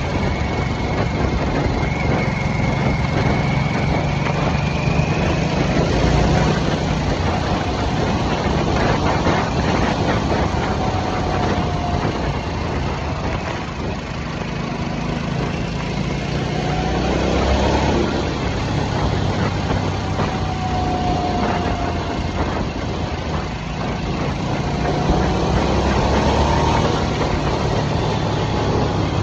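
A 2023 Harley-Davidson Nightster's 975 cc Revolution Max V-twin running while the bike cruises, over a steady rush of wind and road noise. The engine note swells and eases a little a few times as the throttle changes.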